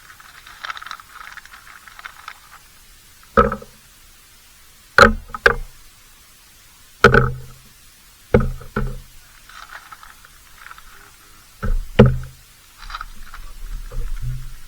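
Sharp knocks on a hard surface, about eight, some single and some in quick pairs, each with a brief ringing tail.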